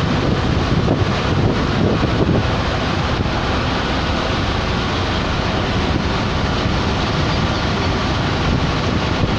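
Wind buffeting the microphone: a loud, steady rush of noise with an uneven low rumble.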